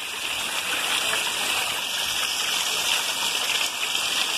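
Heavy rain falling steadily, with runoff pouring from a roof drainpipe.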